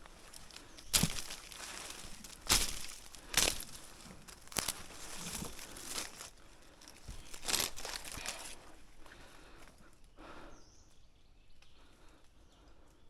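Several sharp knocks or snaps over a light rustling, spaced irregularly through the first part, then quieter rustling.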